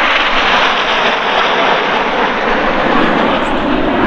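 BAE Hawk T1 jet trainers flying overhead, a loud, steady rushing noise from their Adour turbofan engines.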